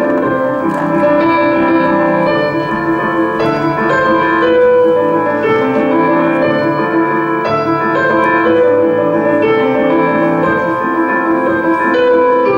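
Instrumental piano or keyboard music, with sustained chords and a melody whose notes change every second or so.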